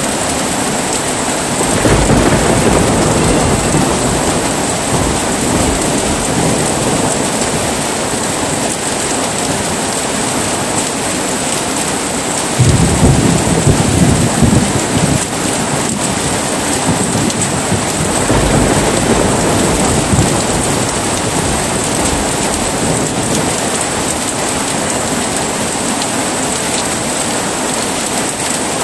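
Heavy rain falling steadily with thunder: a low rumble rolls in about two seconds in, a louder, sudden crack-and-rumble comes near the middle, and a weaker rumble follows a few seconds later.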